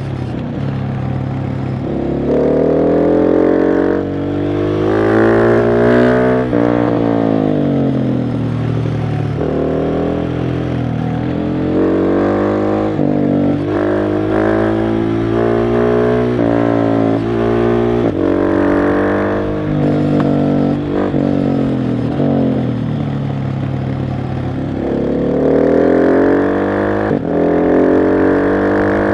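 KTM 690 SMC R's single-cylinder engine under way, repeatedly pulling up in pitch and dropping sharply at each upshift, with long falling stretches as the throttle is closed and the bike slows.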